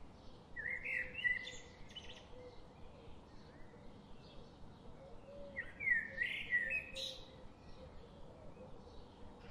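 A songbird singing two short, quickly warbling phrases about five seconds apart, with fainter chirps of other birds in between.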